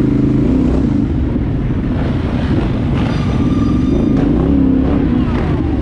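Dirt bike engines running, with the engine pitch rising and falling as throttles are blipped, and a brief higher-pitched whine about three seconds in.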